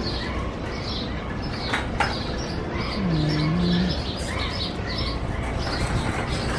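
Small birds chirping, many short high chirps overlapping throughout. A shopping cart being pulled from the row clanks a couple of times about two seconds in, and a low dipping tone sounds about three seconds in.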